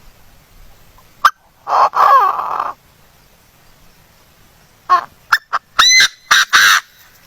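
A bird calling. There is a sharp click, then a call of about a second with gliding, falling pitch around two seconds in, then a quick run of about five short calls near the end.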